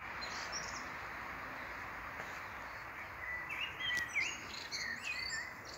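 Forest ambience: a steady outdoor hiss, with a bird chirping several short, quick notes in the second half.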